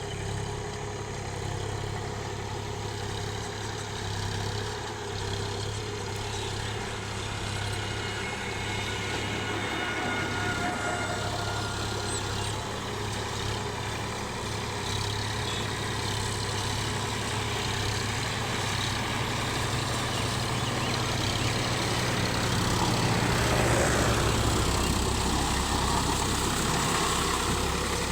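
Sonalika tractor engine running steadily with a low hum, its note dropping lower about 23 seconds in.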